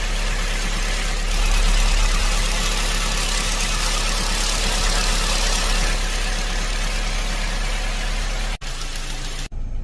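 Opel Astra H 1.4 16v petrol engine idling steadily, with its brake servo check valve replaced. The sound breaks off twice briefly near the end.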